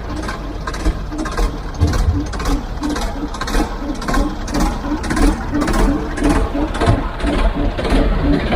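Heavy construction machine's diesel engine running, with a rhythmic clatter about two to three times a second.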